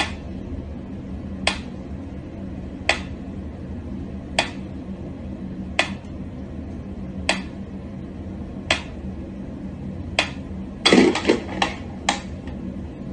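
Sharp taps, one about every second and a half, then a quick cluster of several taps near the end, over a steady low hum.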